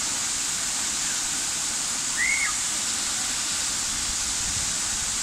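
Waterfall rushing steadily into a pool. A single brief high chirp rises and falls over it about two seconds in.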